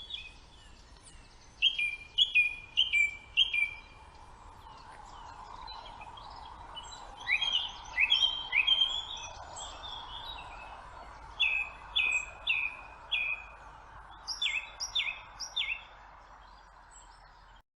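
Songbirds singing: phrases of three to five quick, clear, falling whistled notes repeat every few seconds over a steady background rush, and the sound cuts off suddenly just before the end.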